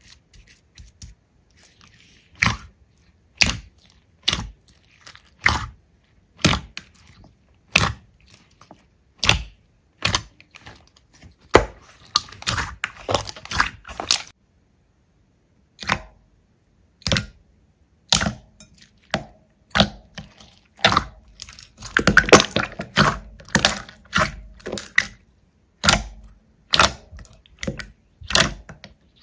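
Hands squeezing and poking slime, making sharp wet pops and clicks about once a second, with stretches of dense crackling squishes about twelve seconds in and again around twenty-two seconds.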